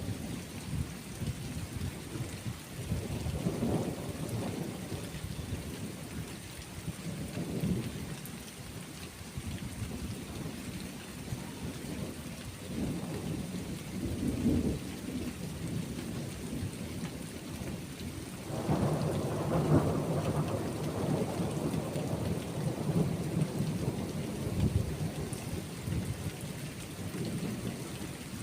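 Thunderstorm: steady rain with rolling thunder rumbling low several times, the strongest roll starting about two-thirds of the way through and lasting several seconds.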